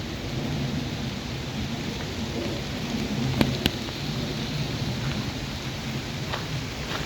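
Steady rain falling, with a low rumble underneath. About three and a half seconds in come two sharp taps in quick succession, the loudest sounds in the stretch.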